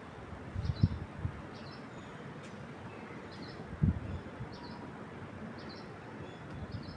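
Wind moving through trees as a steady hiss, with a small bird giving short, high double chirps about once a second. A few low gusts of wind buffet the microphone about a second in and again near four seconds; these are the loudest sounds.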